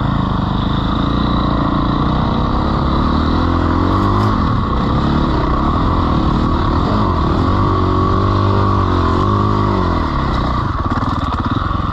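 Dirt bike engine running hard, revving up and down several times as the bike is ridden.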